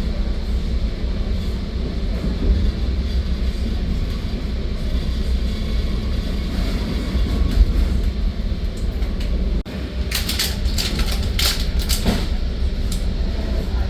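Metra commuter train running, heard inside the passenger car: a steady low rumble, with a burst of sharp clicks and rattling from about ten seconds in until a couple of seconds later.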